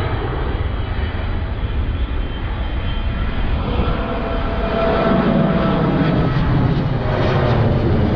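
Jet airliner's engines passing overhead on landing approach: a steady rumble that grows louder about five seconds in, with a faint whine over it, and heavy wind buffeting the microphone.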